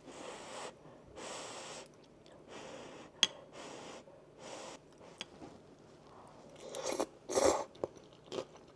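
A person blowing on hot food to cool it: five short breathy puffs about a second apart, then a louder burst of mouth noise near the end.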